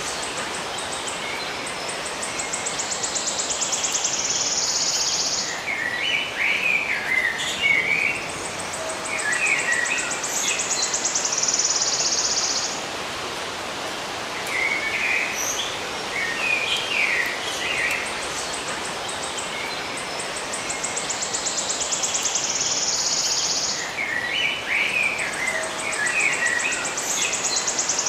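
Birds chirping in short, warbling phrases, alternating with a high, buzzy trill that speeds up and then holds for a couple of seconds; the pattern repeats several times over a steady hiss of background noise.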